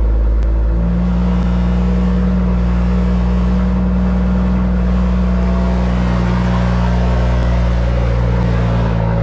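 BMW M2 engine running warm at steady revs, a constant low engine note with no rise or fall in pitch.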